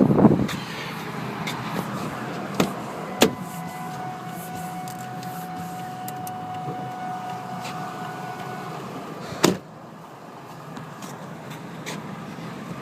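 Ford Expedition's 5.4-litre Triton V8 idling steadily, with a few sharp clicks, a steady whine for about five seconds in the middle, and a louder thump about nine and a half seconds in, after which the sound is quieter.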